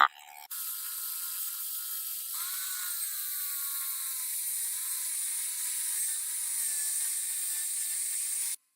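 A small motor whirring steadily at high pitch, starting and stopping abruptly, with a faint wavering whine joining in about two seconds in.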